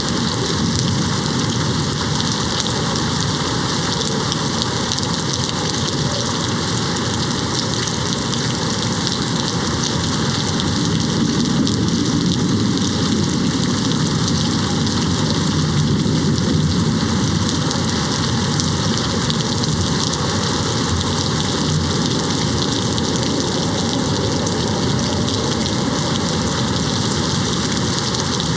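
Steady rain beating on a window, with a low rumble of distant thunder swelling in the middle.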